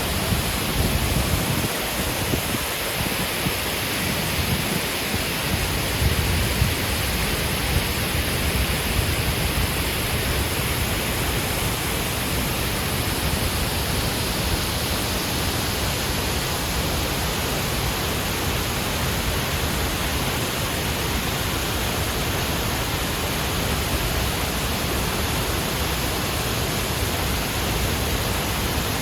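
Artificial waterfall: a steady rush of water falling down a high cliff face, with some uneven low rumble in the first few seconds.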